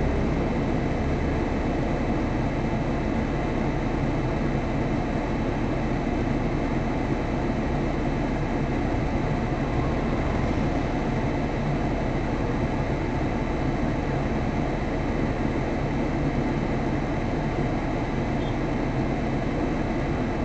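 Steady, unchanging engine hum and cabin drone of a stopped car idling, heard from inside the cabin.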